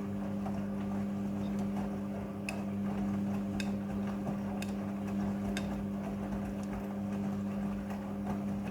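Front-loading washing machine running with a steady electrical hum, with faint ticks about once a second.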